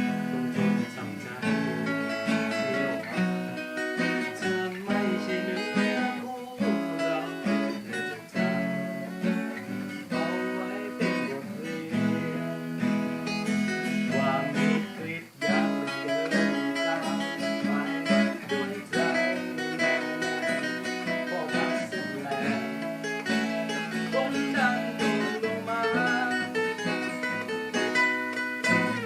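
Music with acoustic guitar, strummed and picked, playing steadily.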